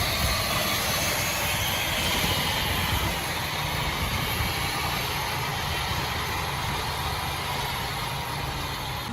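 Heavy earthmoving machine's diesel engine running steadily, a continuous low rumble with mechanical clatter and hiss.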